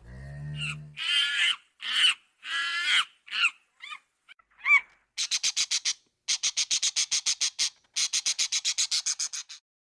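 Animal calls. A brief low call opens, followed by a run of short high calls that slide down in pitch, then three bursts of rapid high pulsed trills at about nine pulses a second.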